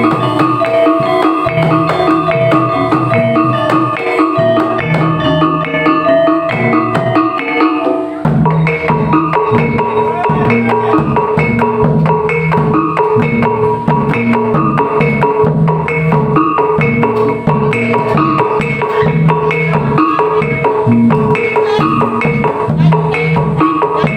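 Topeng Ireng dance accompaniment: loud, rhythmic percussion music with drums and repeating pitched, struck notes. The pattern changes about eight seconds in.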